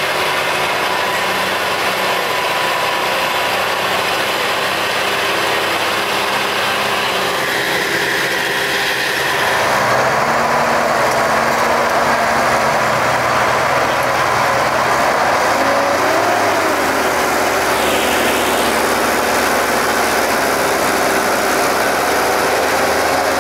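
Tractor engine running, getting louder about ten seconds in.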